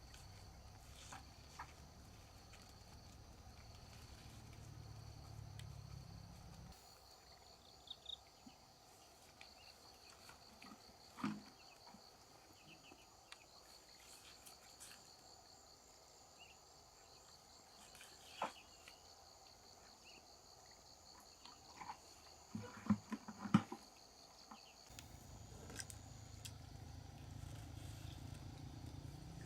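Faint outdoor ambience with a steady high insect chorus, a low rumble at the start and again near the end, and scattered small clicks and knocks, several close together about three-quarters of the way through.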